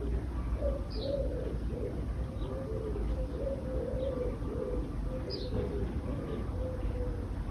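A dove or pigeon cooing in a run of low, repeated curving notes, with two short high chirps from a small bird, about a second in and past five seconds, over a steady low rumble.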